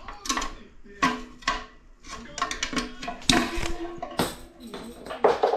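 Repeated sharp metallic clanks and taps, some in quick clusters, with short ringing after the hits: steel parts of a 4L60 automatic transmission knocking against each other and the case as a stuck part is worked loose.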